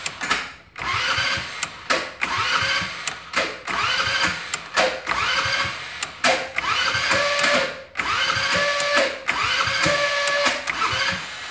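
Electric starter motor of a 150 cc carbureted go-kart engine cranking it from cold in a run of short, repeated bursts. Each burst is a whine that rises and then levels off, with brief pauses between them. The engine does not catch.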